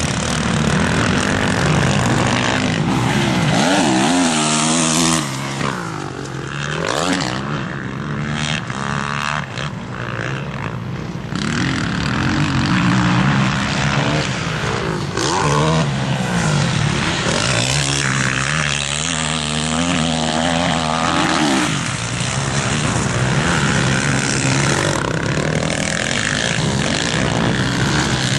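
Several motocross bikes racing, their engines revving hard and repeatedly rising and falling in pitch, with several engines overlapping.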